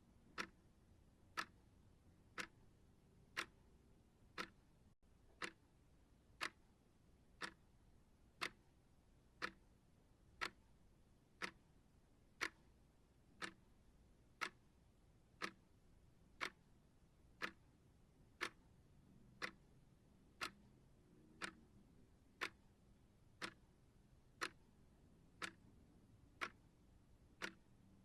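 Timer ticking steadily, one sharp tick a second.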